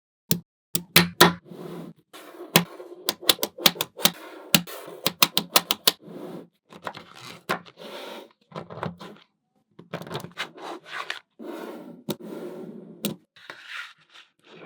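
Small magnetic balls clicking and snapping together in quick, irregular runs of sharp clicks, with stretches of softer clattering as they are pushed and rolled into place.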